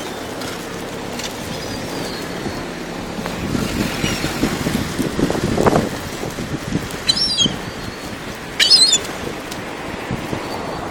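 Gulls calling: two short harsh calls, about seven seconds in and again a second and a half later, the second one louder, over a steady background hiss.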